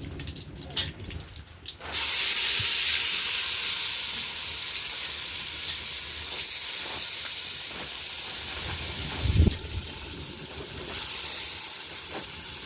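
Omena (small fish) going into hot oil in a sufuria: a loud sizzling hiss starts suddenly about two seconds in and slowly eases. There is a dull knock about nine seconds in.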